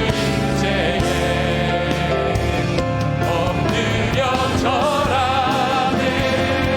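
Contemporary worship music from a live praise band (piano, synthesizer, bass guitar, electric guitar and drums) with voices singing.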